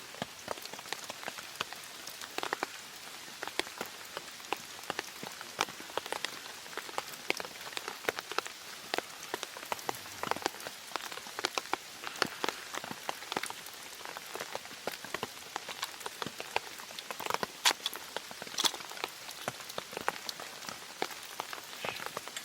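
Rain falling on a camp tarp: a soft steady hiss with irregular drops tapping on the fabric, a few louder taps near the end.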